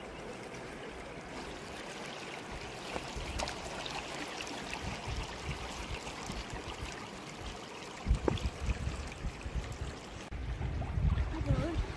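Fast river water rushing steadily. From about eight seconds in, low buffeting rumbles on the microphone come in, louder near the end.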